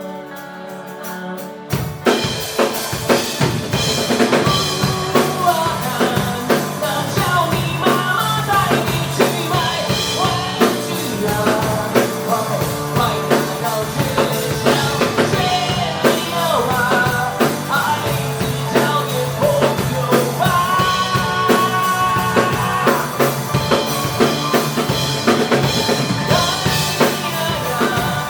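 Live rock band playing: soft sustained chords at first, then the drum kit and bass come in about two seconds in, and the full band plays on under a wavering lead melody.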